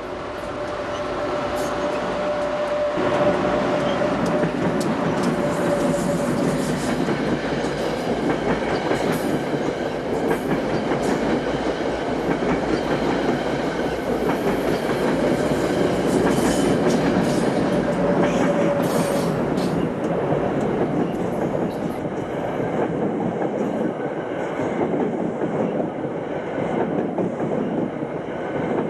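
Passenger train headed by two AEM-7 electric locomotives passing close by: the sound grows over the first few seconds as the locomotives arrive, then the coaches roll past with a steady rumble and wheels clattering over rail joints.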